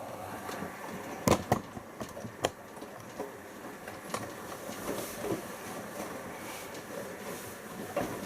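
Siemens iQ front-loading washing machine in its rinse phase: the drum turns and the wet load tumbles, with a steady rumble. Several sharp clunks come as the load drops, two close together about a second in and another a second later, with lighter knocks after.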